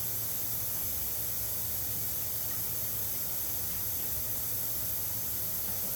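Steady hiss with a low hum underneath, unchanging throughout; no distinct mechanical event stands out.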